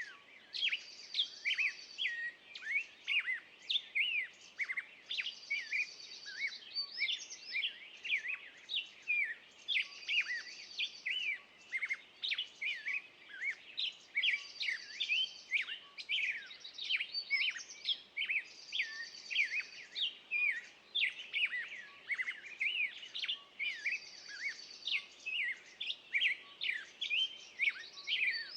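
Birdsong: many quick high chirps and whistles, with one bird repeating a short high trill about every four to five seconds.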